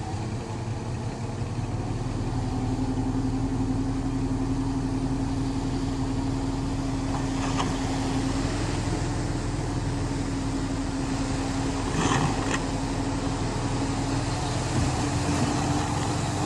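Diesel engine of heavy earthmoving machinery running steadily at working revs, building up over the first couple of seconds. There are two brief metallic clanks, about halfway through and again about three-quarters of the way through.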